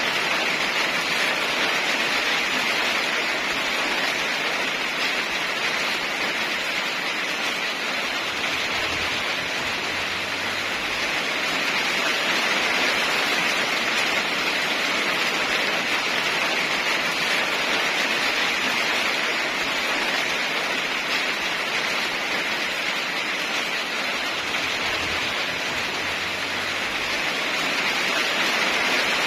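Steady heavy rain, an even hiss that swells slightly in loudness now and then.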